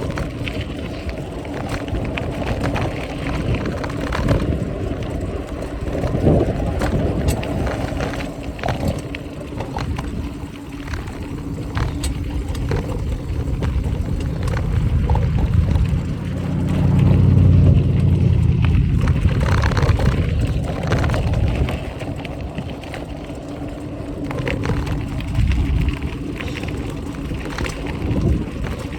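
Mountain bike being ridden: a steady low rumble of wind and tyres with many rattling clicks from the loose, rattly chain and the phone in its mount. The rumble swells louder for a few seconds past the middle.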